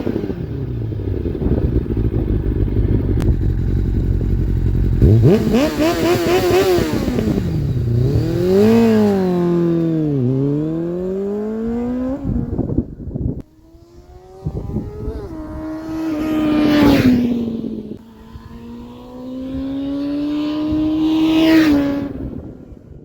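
Kawasaki ZX-6R J2's inline-four engine through a carbon Micron end can, idling at first and then revved up and down several times. After a sudden drop about halfway through, it climbs twice in long rising sweeps of pitch that fall back.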